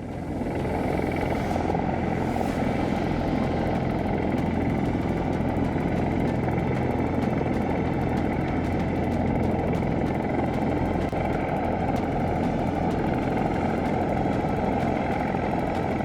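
Rotorcraft in flight: a steady drone of engine and rotor noise with a constant low hum, holding level throughout.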